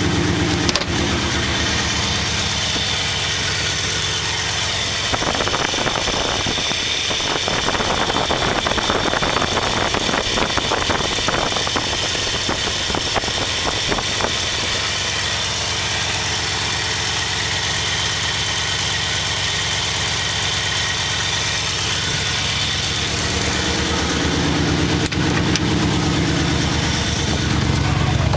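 Studebaker engine on a rebuilt Carter AFB four-barrel carburetor, running during a choke test. For several seconds around the middle it runs louder and rougher, then settles to a steady idle, and it picks up again near the end.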